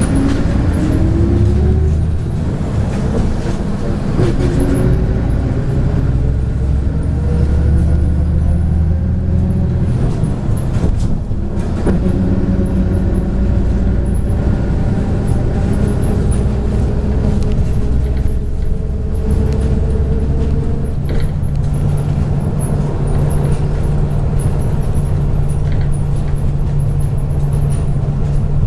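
MAZ 103.562 bus heard from on board while under way: a diesel engine's loud, steady rumble, its pitch rising several times as the bus pulls away and picks up speed, then settling into an even drone for the last third.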